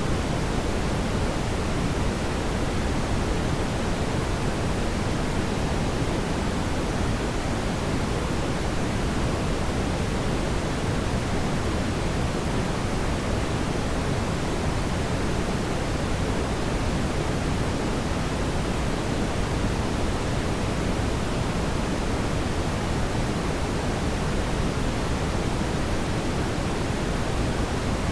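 Fire burning in a fireplace: a steady, even rushing hiss with no distinct crackles or pops standing out.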